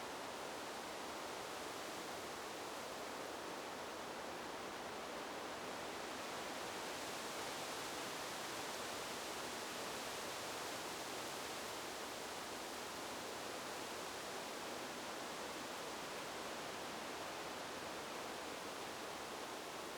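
Steady, even rush of flowing river water, with no separate splashes or crackles.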